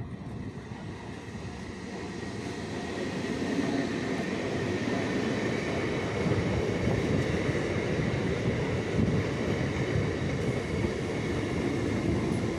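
A local train running along the track, its rumble and wheel clatter growing louder over the first few seconds and then holding steady, with a faint high whine above it.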